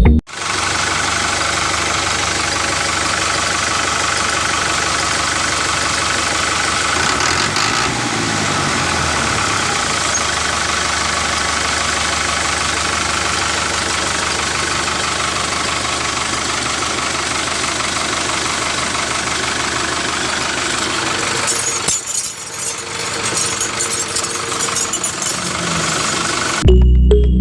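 A small electric hobby motor running steadily with a buzzing whir, with a brief drop in level a little past the middle.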